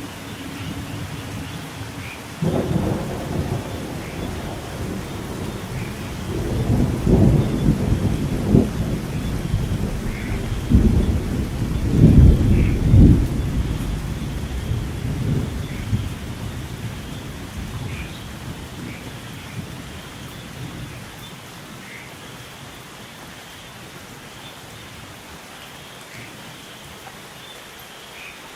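Steady rain with a long roll of thunder: the rumble breaks in about two seconds in, swells to loud peals around the middle, and rolls away, leaving only the rain for the last several seconds.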